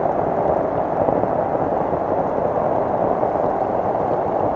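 Heavy rain falling on flooded water, a steady, dense patter.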